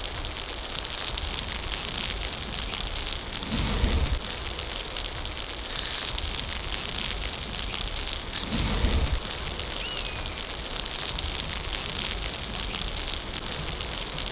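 Heavy snow falling and pattering steadily, a fine rain-like hiss. Two short low thuds come about four and nine seconds in.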